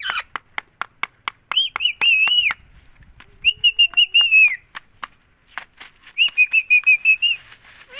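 Pet parrot calling in three quick bouts of short, shrill, repeated notes, with many sharp clicks in between.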